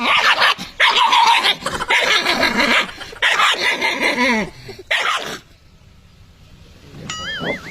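A dog vocalising in a series of loud bursts with wavering pitch, going quiet about five seconds in.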